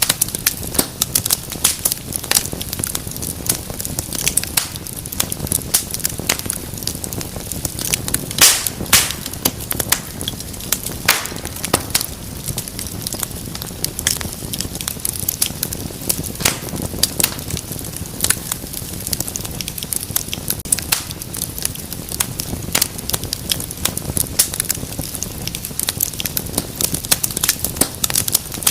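Wood fire burning in a fireplace, crackling steadily with frequent sharp pops and snaps over a low rumble of flame; a few louder pops about a third of the way in.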